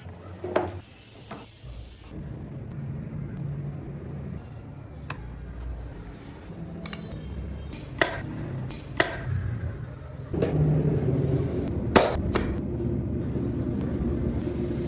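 A hammer striking a wood-carving chisel, in a few separate sharp knocks spaced seconds apart, over a steady low background.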